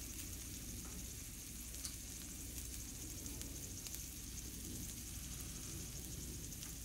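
Challah French toast slices and sausages frying in butter on a stainless steel griddle: a soft, steady sizzle with small scattered crackles.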